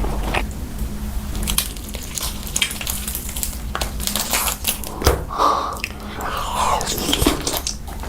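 Close-miked eating: a person taking crunchy bites and chewing, with many irregular sharp crackles, over a steady low hum.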